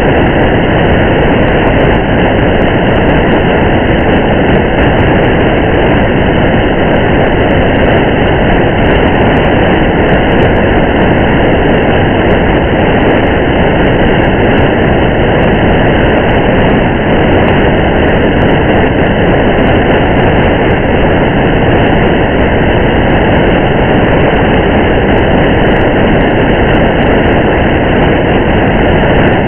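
Steady rain and driving road noise, an even unbroken rushing with a low rumble, unchanging throughout.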